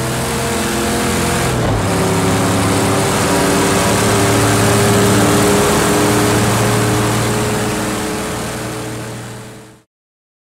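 Car engine sound effect running at high revs under the outro graphics. It drops in pitch once about a second and a half in, then holds steady and cuts off suddenly near the end.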